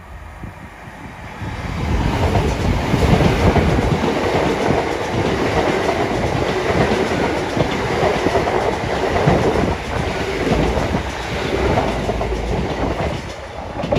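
LNER Class 800 Azuma bi-mode train passing close by at speed, running on its underfloor diesel engines. The sound swells about two seconds in and stays loud as the coaches go by.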